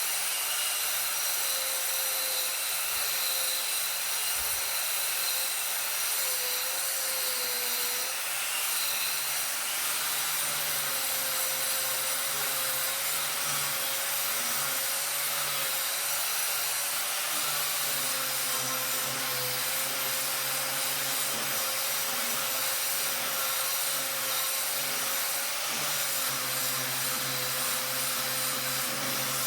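A power tool running continuously, a steady hiss with a thin whine that wavers slightly in pitch.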